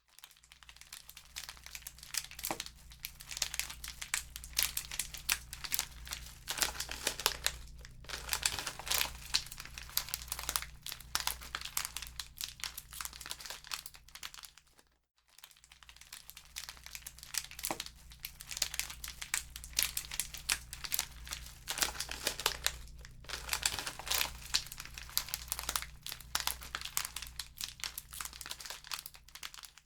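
Wood fire in a fireplace crackling steadily, with sharper pops now and then over a low steady hum. The sound cuts out for a moment about halfway through.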